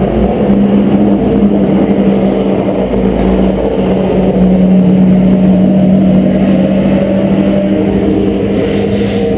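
Race car engine running at a steady idle close by, with a steady hum and low rumble.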